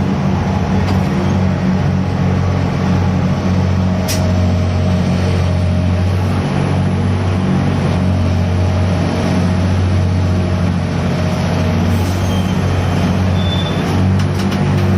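Heavy diesel machinery of a gut ship (grab-bucket crane vessel) running steadily during cargo handling, a low drone. A single sharp click about four seconds in and a few light clinks near the end.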